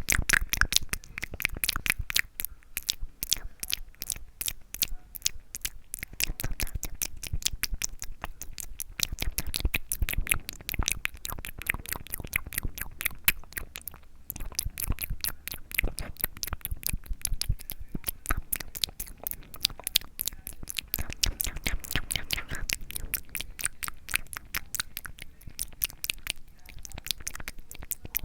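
Close-miked ASMR mouth sounds: wet lip and tongue clicks in a dense, unbroken stream of many clicks a second.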